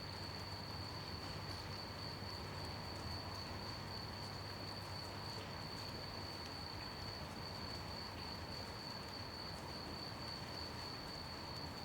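Crickets chirring in one steady, unbroken high-pitched note over an even hiss of gentle rain.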